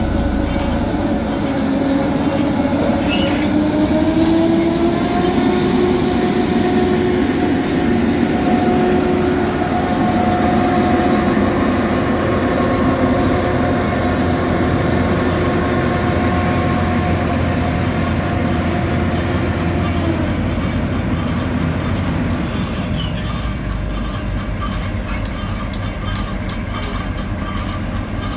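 Heavy diesel road-building machinery running at work. Its engine tone rises about four seconds in, holds steady, then drops away about twenty seconds in, leaving a lower rumble.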